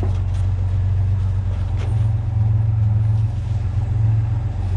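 A vehicle engine idling steadily, with a couple of light knocks over it.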